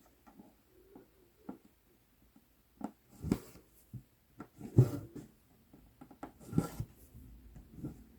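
Cross-stitching on Aida cloth: light ticks of the needle piercing the fabric, and three louder swishes as the floss is drawn through.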